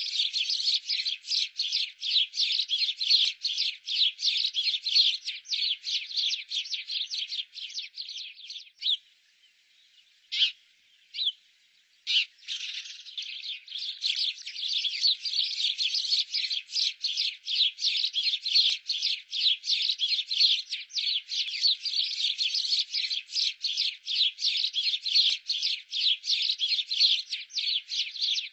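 Small birds chirping rapidly and continuously, several high chirps a second, breaking off for a few seconds about a third of the way in and then resuming.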